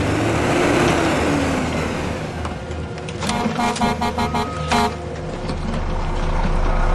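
A vehicle horn sounds in a quick run of short toots about three seconds in, over the steady low hum of a running vehicle engine. Near the start, vehicle noise swells and fades.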